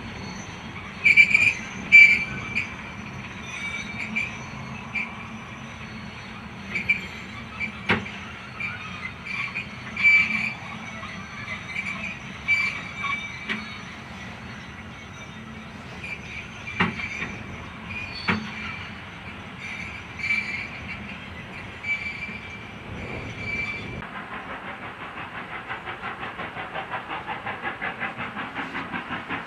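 Train wheels rolling slowly, the flanges giving repeated short squeals, with a few sharp knocks from the rails. Near the end the sound changes abruptly to a fast, even pulsing beat.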